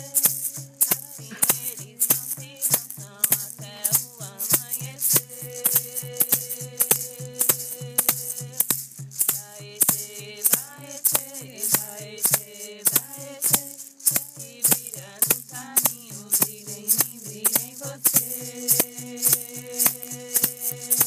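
Yawanawá chant: a voice singing long held notes that glide between pitches over a hand rattle shaken in a steady beat, about two shakes a second.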